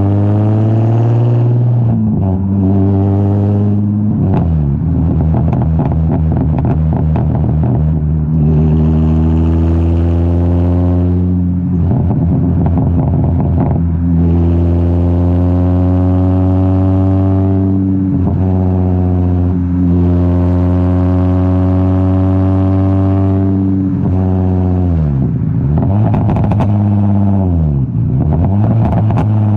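Straight-piped Infiniti G35's 3.5-litre V6 exhaust, running raw through a single exit with no mufflers. The engine climbs in pitch under acceleration and drops sharply several times as it shifts up through the gears. Near the end it falls away in a few dips as the car slows.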